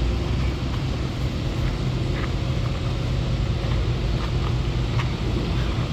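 A steady low rumble from an idling engine, with a constant low hum and no change in speed.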